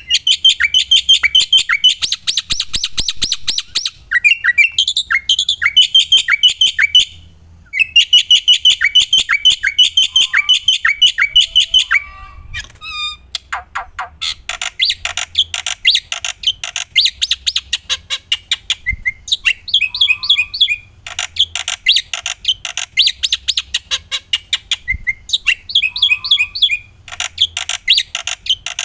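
Black-winged myna (jalak putih) in full, energetic song: fast runs of sharp, rapidly repeated chattering notes, coming in bursts several seconds long with short breaks between them.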